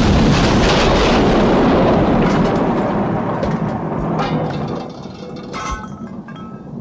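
Explosion sound effect: a loud, rumbling roar that holds for a couple of seconds and then slowly fades. Scattered crackles and clicks come through in its second half as it dies away.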